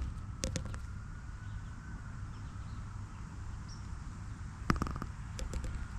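Birds pecking at walnuts on a ledge: a few sharp taps just after the start and another cluster about five seconds in, over a low steady outdoor rumble, with a faint bird chirp in between.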